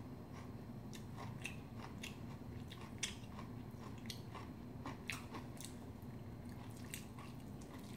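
Close-miked chewing of a mouthful of bibimbap (rice mixed with seasoned vegetables), soft wet mouth sounds with many small sharp clicks scattered throughout, the loudest about three and five seconds in.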